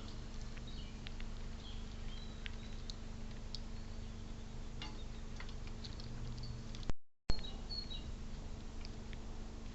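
Faint, scattered bird chirps over a steady low hum. About seven seconds in, the sound drops out briefly, with a click at each end.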